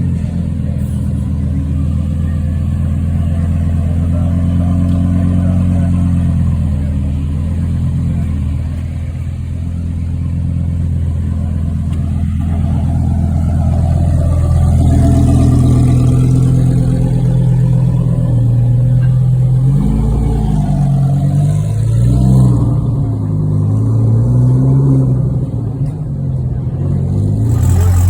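Car engine running loudly with a deep, steady note, its pitch rising and falling several times in the last third as it is revved.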